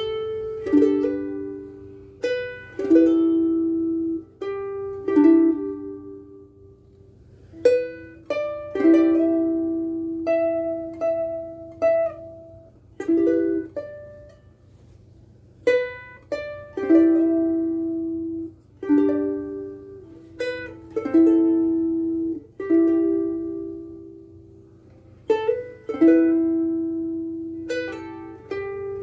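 Cocobolo soprano ukulele with Oli Uke Logic strings being finger-picked, a slow passage of single notes and chords, each plucked and left to ring out and fade.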